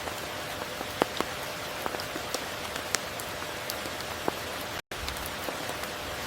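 Steady rain, with single drops ticking sharply here and there. The sound cuts out for a split moment near the end.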